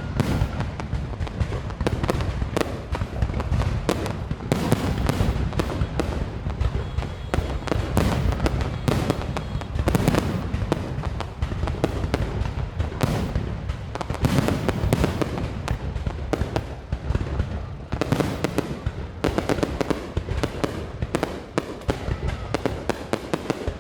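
Fireworks going off in a dense, unbroken run of bangs and crackles, with heavy low booms throughout.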